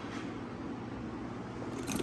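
Steady low background hum, with a faint rustle near the end.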